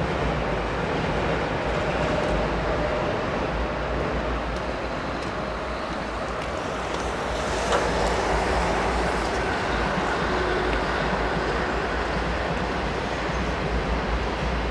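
Freight train rolling past with a steady rumble of wagons on the rails, with a single sharp click about eight seconds in.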